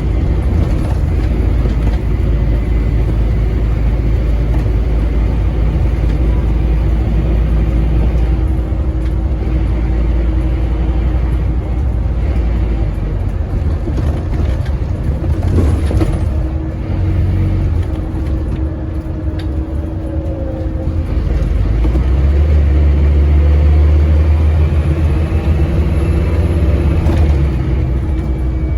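Scania N230UD double-decker bus engine pulling hard, heard from inside the bus. About two-thirds of the way in, the ZF Ecomat automatic gearbox holds a gear to high revs and the engine grows louder before easing.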